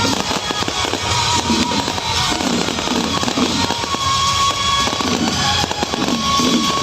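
Fireworks crackling densely and continuously over loud music.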